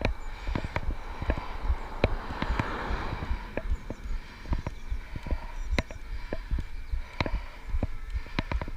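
Electric bike being ridden: irregular rattling clicks and knocks from the bike, about several a second, over a steady low rumble of wind on the microphone.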